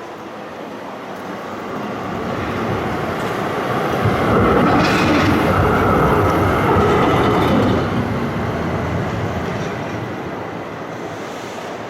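Tram passing by on rails: the running noise grows louder, peaks for a few seconds in the middle, then fades as it moves away.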